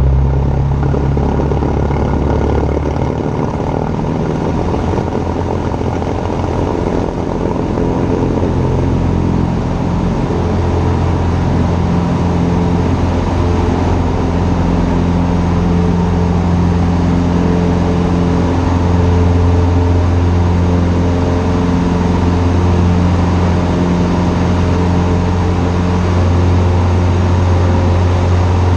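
Cessna 150's four-cylinder air-cooled piston engine running steadily at power, with its note shifting about three seconds in.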